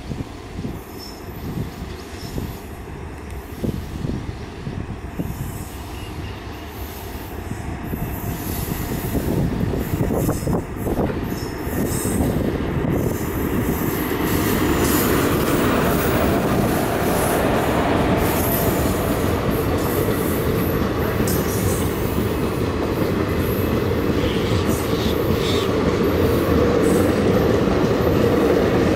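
A passenger train hauled by a WAP-4 electric locomotive accelerating past. The locomotive and train draw nearer with separate knocks early on. The sound swells to a loud, steady rumble of steel wheels on the rails as the locomotive goes by about halfway through, and the coaches roll past after it.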